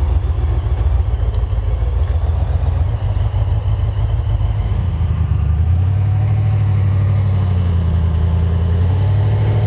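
Toyota FJ45 four-wheel drive's engine running under load, its revs rising about halfway through and then held steady at the higher pitch.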